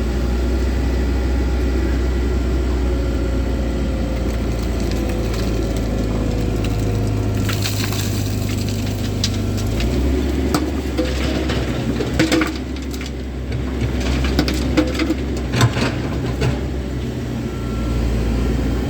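Komatsu 130 excavator's diesel engine running steadily, its note shifting about ten seconds in. From about seven seconds in, the bucket scrapes and crunches through soil and stones, with a series of sharp cracks and knocks until near the end.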